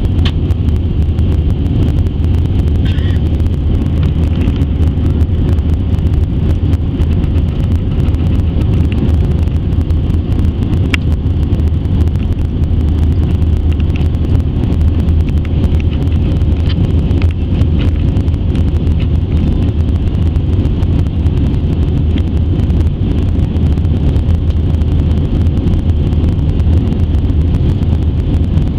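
Airliner cabin noise aboard an Airbus A320-212 in flight: the steady low rumble of its CFM56 engines and airflow, with a faint steady high whine over it.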